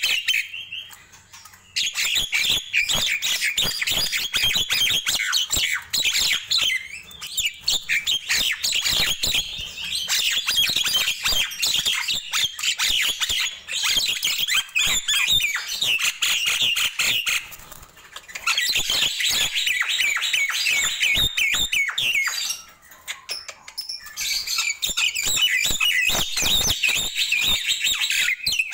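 Nias hill myna singing in long bouts of fast, dense chattering notes, broken by short pauses about 18 and 23 seconds in.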